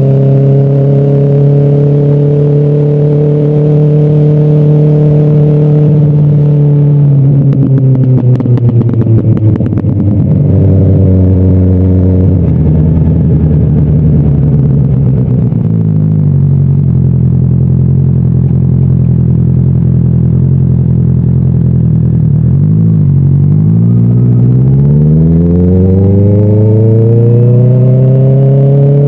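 Motorcycle engine and exhaust at highway speed, running steadily, then dropping in pitch as the throttle is rolled off about six seconds in, with a spell of crackling for a few seconds. It runs lower for a while, then revs rise steadily again through the last third as the bike accelerates.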